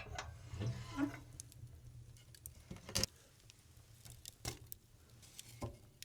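Scattered light clicks and knocks, with the clearest about one second and three seconds in, over a faint low hum.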